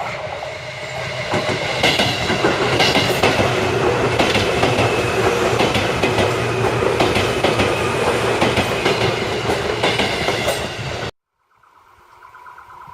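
Seibu Railway electric train passing close by: it grows louder over the first two seconds, then runs loud with repeated wheel clicks over the rail joints, and cuts off suddenly about eleven seconds in.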